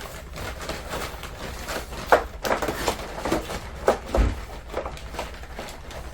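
Handling noise of two supports being fitted into a wall-mounted air conditioner: scattered clicks and knocks, with a sharp knock about two seconds in and a low thump about four seconds in.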